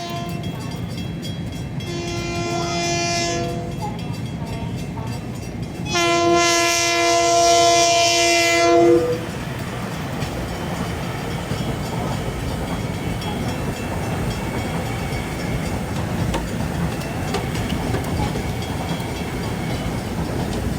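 Long Island Rail Road train sounding its horn: a blast about two seconds in, then a longer, louder blast from about six to nine seconds. After that comes the steady rumble and wheel clatter of the train running through.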